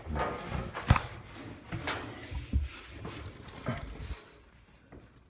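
Hands working a drive belt onto a clothes dryer's motor pulley and tensioner inside the cabinet: several sharp knocks and clicks of metal and plastic parts over rustling, the loudest about a second in, fading out after about four seconds.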